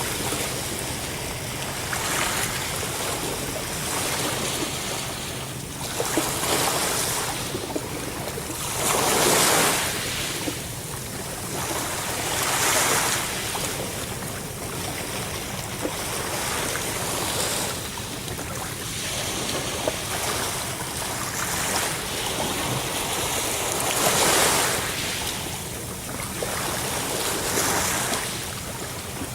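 Ocean surf, waves washing in and drawing back, the rush swelling and easing in surges every few seconds.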